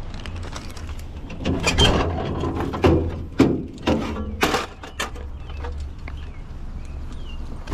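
A series of loud clanks and rattles, bunched together in the middle, over a steady low engine hum, typical of drink cases and a hand truck being handled while unloading a delivery truck.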